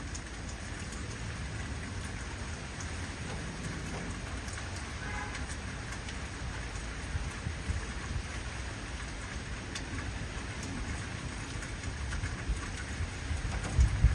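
Heavy rain falling steadily, with the patter of drops and a low rumble of thunder underneath, the thunder swelling louder near the end.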